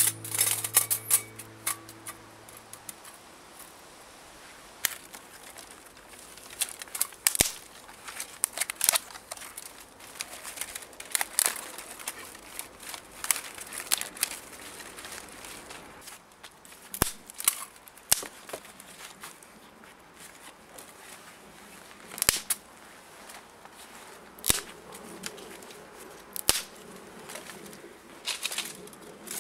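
Irregular sharp crackles and snaps of dry twigs and fallen leaves, with a few louder snaps among many small ones.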